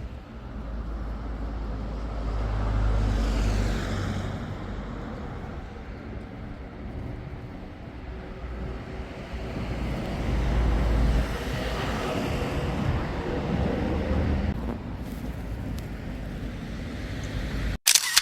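Outdoor street ambience with a low rumble that swells twice, as a vehicle passes about three seconds in and again near the middle. A short loud burst just before the sound cuts off abruptly at the end.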